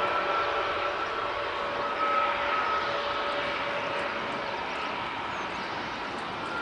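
Airbus A320 jet engines running: a steady rushing noise with a held whine, slowly fading.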